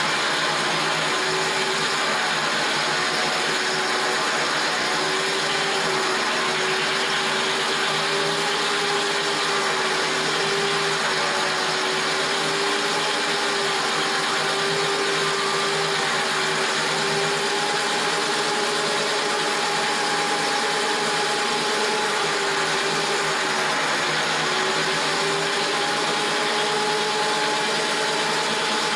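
Corded DeWalt drill running steadily at low speed, its diamond-coated bit grinding a hole through porcelain tile. The motor gives a steady whine under the grinding, dipping slightly in pitch once about two-thirds of the way through.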